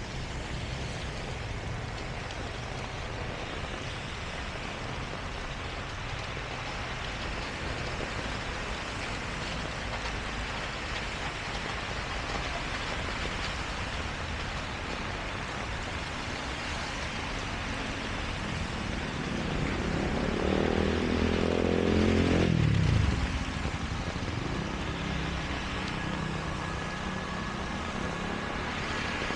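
Steady heavy rain with traffic noise. About two-thirds of the way through, a motor vehicle passes close, its engine rising in pitch and getting louder, then falling away quickly.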